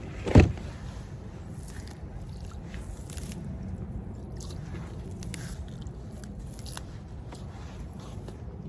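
Handling noise as a catch of tangled fishing line and debris is picked through: one sharp knock about half a second in, then soft scraping, squishing and crinkling with scattered small clicks over a low rumble.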